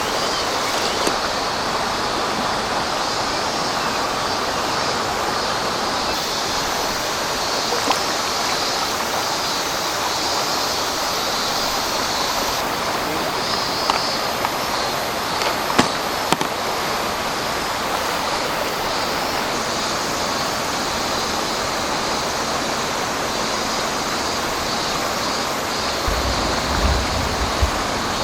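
Steady rush of flowing river water, with a few faint clicks. A low rumble joins near the end.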